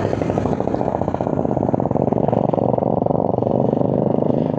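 Motorcycle engine running steadily while riding, with a fast, even pulsing and little change in pitch.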